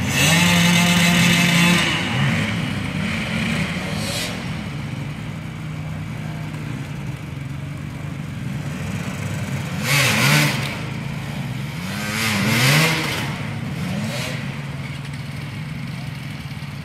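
Enduro motorcycle engines revving hard in bursts, the pitch climbing and falling, over a steady lower engine note. There are three loud surges: at the start, about ten seconds in, and again a couple of seconds later.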